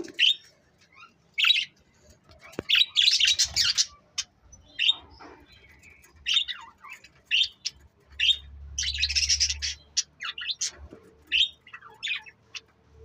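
Small cage birds chirping: short, sharp calls coming irregularly, with two busier bursts of chatter, one about three seconds in and one near the middle.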